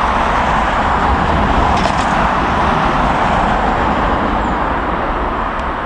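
Jet airliner engines giving a loud, steady roar with a deep rumble underneath.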